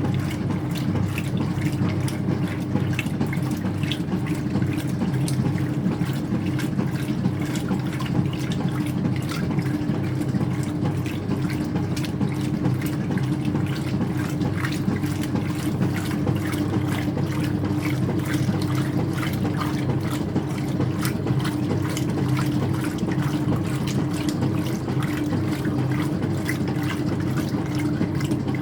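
Water splashing and running in the tub of a Speed Queen top-loading washer during the rinse of a towel load, over a steady hum from the machine.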